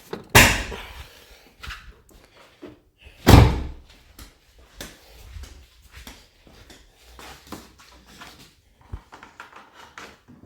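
Car hood being unlatched and lifted: a sharp thunk just under half a second in and a louder, deeper thunk about three seconds in, followed by light clicks and knocks.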